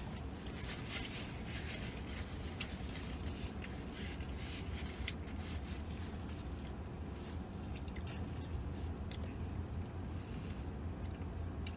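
A man chewing a mouthful of sub sandwich, with scattered crackles of the paper wrapper, over a steady low hum.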